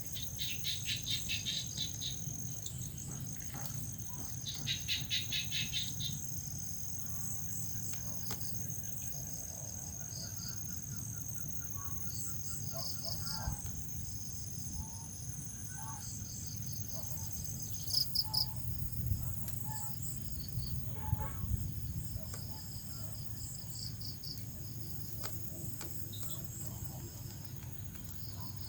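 Crickets chirping: a steady high trill with other crickets pulsing over it, and louder bursts of fast-pulsed chirping near the start and again about five seconds in. A few short ticks around eighteen and twenty-one seconds in, over a low steady background rumble.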